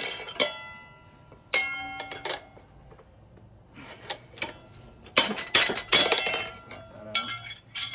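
Steel tire irons clanking and clinking against each other and the wheel, with one ringing clang about a second and a half in and a flurry of clanks near the end.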